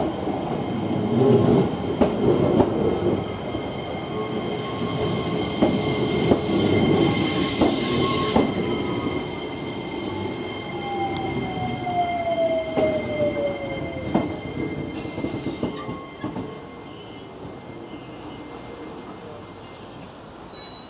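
Shizuoka Railway A3000 series electric train pulling in and slowing to a stop, with rumble and clicks from the wheels over the rails. A high-pitched squeal comes in a few seconds in, and a whine falls in pitch as the train slows. The sound fades as the train comes to rest.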